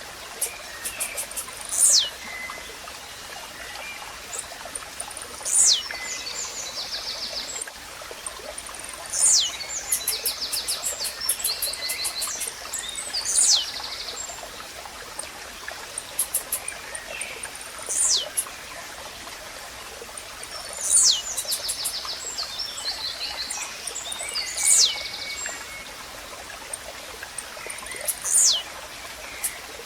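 Blue-black grassquit (tiziu) singing its short, sharply falling note, repeated about every three to four seconds, eight times, over the steady rush of a running stream. Other small birds add ticking notes and short trills between the songs.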